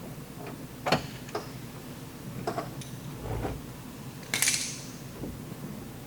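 Metal clicks and clinks from a K-beam bridge lifter being taken off a glue-pull tab, with a low thump about three seconds in and a short scraping clatter a second later.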